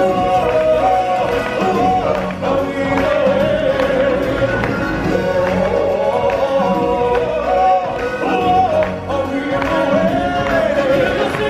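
Live stage-show music with singing voices over a full band, continuous and steady in level.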